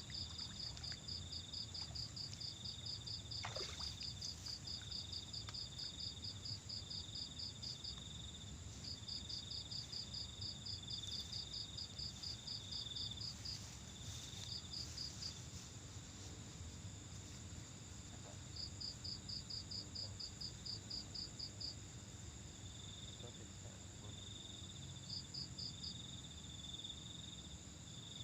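Night insects chirping: a steady high trill, with bouts of rapid pulsed chirps at about five a second that stop and start, over a low steady rumble. One short falling sound comes about three and a half seconds in.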